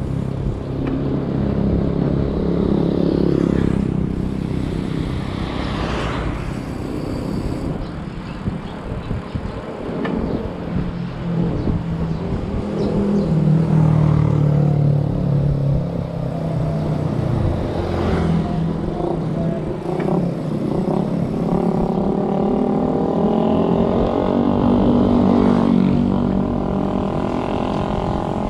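Motor vehicle engine running on the road, its pitch rising and falling with speed, over a heavy rumble of wind and road noise.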